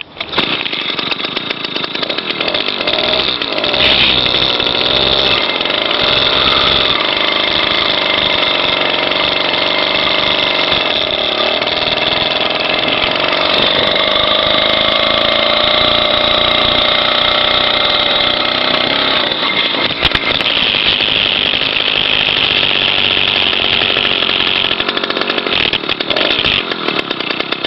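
Two-stroke motorized-bicycle kit engine running steadily at speed with a buzzy, chainsaw-like tone. Its pitch wavers up and down, rises about a third of the way in, and dips briefly around two-thirds of the way through.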